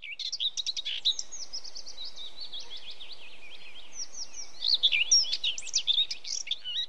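Small songbirds chirping and singing, many quick high calls overlapping, busiest and loudest about five seconds in.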